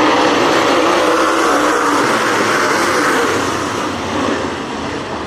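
A pack of dirt-track race cars running hard under power as the field takes the green flag, the engine note easing off slightly near the end.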